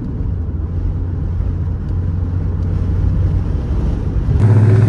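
Chrysler 300's engine droning steadily while the car cruises. About four and a half seconds in it gets suddenly louder and a little higher as the throttle opens for a pull.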